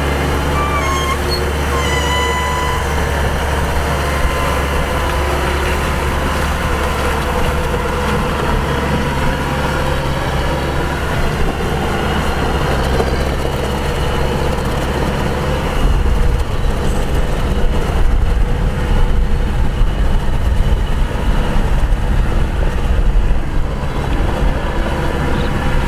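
Kubota DC-105X combine harvester's diesel engine running steadily with the machinery working, growing louder and rougher about two-thirds of the way through. A few short high squeaks come near the start.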